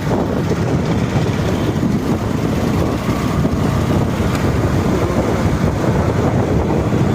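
Wind buffeting the microphone on a moving scooter, with a steady rumble of road and traffic noise underneath.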